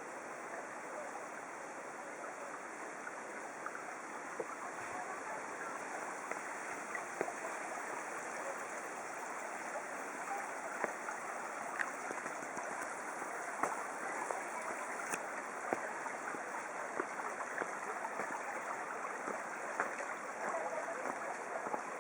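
Stream water rushing steadily, with scattered small clicks and ticks.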